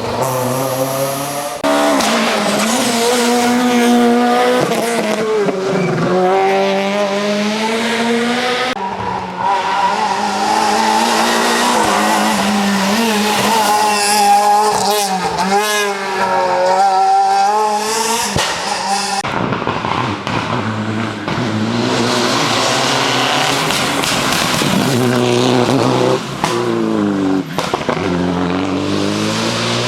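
Ford Fiesta RS WRC rally car's 1.6-litre turbocharged four-cylinder engine revving hard, its pitch climbing and dropping through gear changes, in several passes cut together with abrupt breaks about 2, 9 and 19 seconds in.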